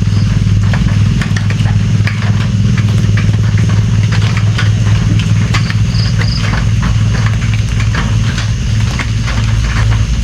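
Rain falling: many separate drops ticking irregularly over a steady low rumble.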